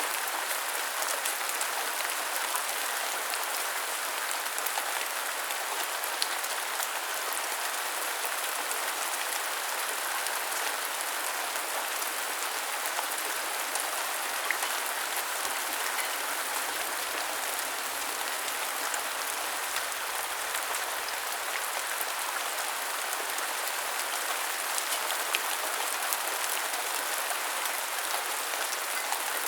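Steady rain falling and pattering on hard surfaces, an even hiss with scattered sharper drop ticks.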